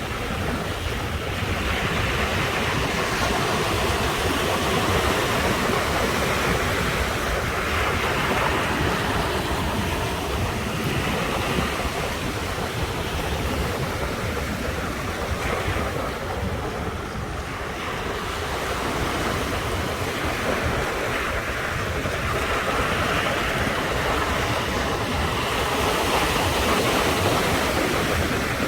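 Ocean waves breaking and washing on the shore, swelling and easing every few seconds, with wind buffeting the microphone.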